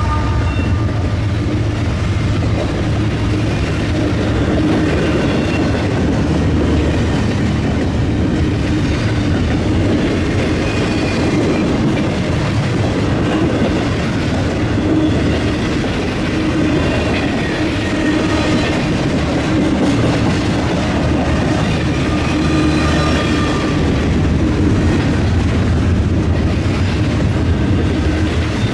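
Freight train rolling past close by, its steel wheels clattering steadily over the track, with faint high wheel squeal mixed in.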